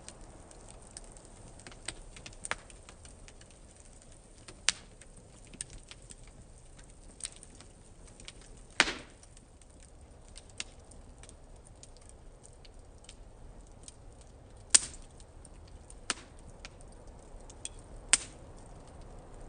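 Wood fire burning, crackling with irregular sharp pops over a low hiss; the loudest snaps come about 9 seconds in, around 15 seconds and near the end.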